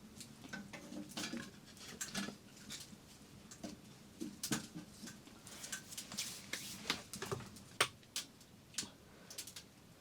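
Irregular light clicks and taps, several a second at uneven spacing, with one sharper knock near the end.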